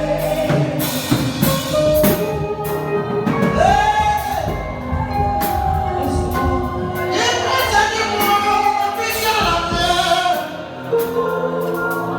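Live gospel music: voices singing long held notes over a band with drums.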